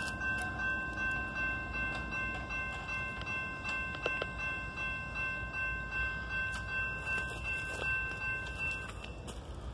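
A CSX coal train passing, with a steady rumble and a beat about every two-thirds of a second. Over it a thin, steady, high-pitched ringing tone cuts off near the end.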